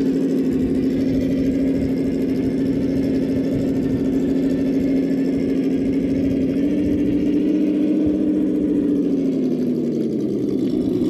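Electric motor of a radio-controlled model running at a steady, humming pitch, which rises slightly past the middle and drops off near the end.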